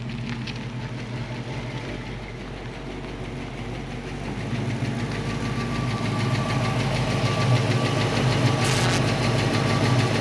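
1966 Mustang's factory V8 running at low speed as the car drives up, getting steadily louder as it comes close.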